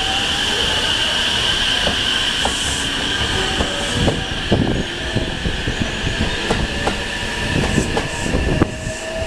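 JR West 287 series electric multiple unit rolling slowly through the station: a steady high-pitched wheel squeal over irregular clacks of the wheels crossing rail joints and points. A faint rising whine comes in near the end.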